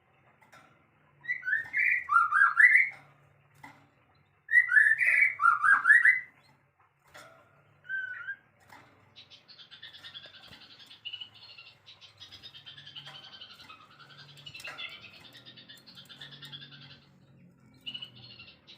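Songbird singing two loud phrases of quick whistled notes, each under two seconds and stepping down in pitch, then one short note. From about nine seconds in, a faint, steady, high-pitched twittering runs on.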